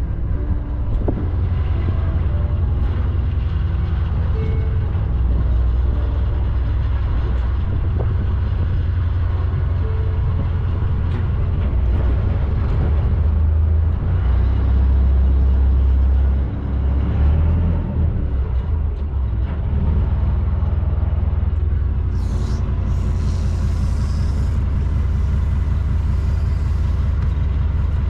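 Small ferry boat's engine running steadily with a low rumble. A short burst of hiss comes near the end.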